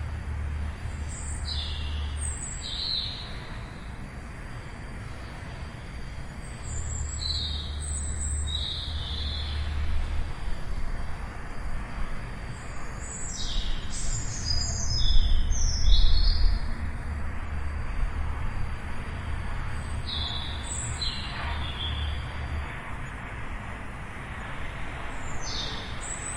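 Birds chirping in short clusters of high calls every few seconds, over a steady low rumble that swells briefly about halfway through.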